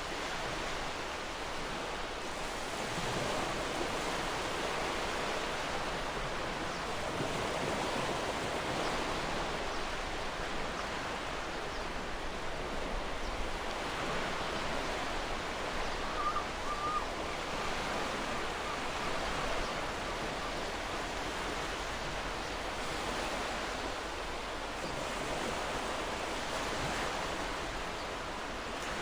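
Gentle ocean waves washing in a steady hiss that swells and eases slowly, with a faint bird chirp about halfway through.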